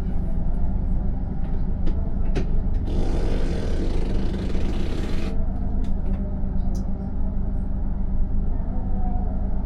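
Steady low drone inside a stationary passenger train carriage, with a constant hum. There are a few light clicks, and a hiss of about two seconds starting about three seconds in.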